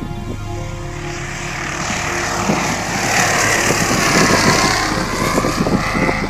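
Single-engine propeller light aircraft at take-off power, its engine and propeller noise growing louder as it comes close and peaking about four seconds in.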